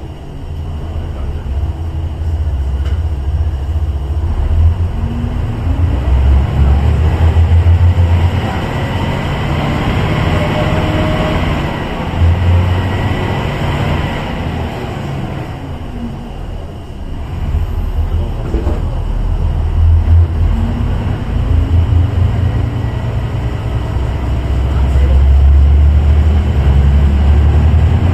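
Kanto Railway KiHa 2100 series diesel railcar's engine running loud under power as the train pulls away, its low rumble swelling and easing repeatedly, with a whine that rises and then falls about halfway through.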